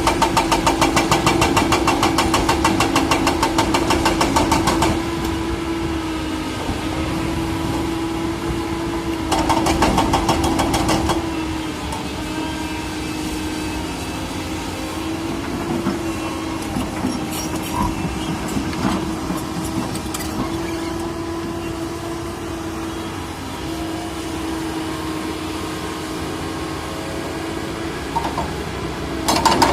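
Excavator's diesel engine running with a steady hum. It clatters loudly for the first five seconds and again briefly around ten seconds in, and runs quieter in between.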